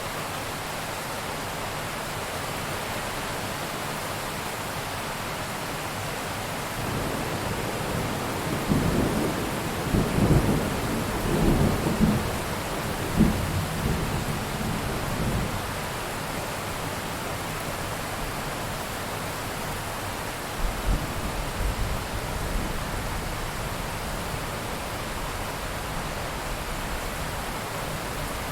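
Steady rain with thunder: a long rolling rumble swells about a quarter of the way in and dies away past the halfway mark, and a shorter, weaker rumble follows a few seconds later.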